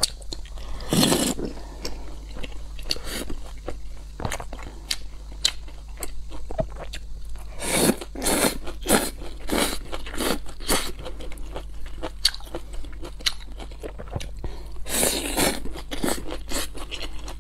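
Close-miked eating: crunching and chewing of fried food, in irregular bites, with louder bursts about a second in, in the middle and near the end. A low steady hum lies underneath.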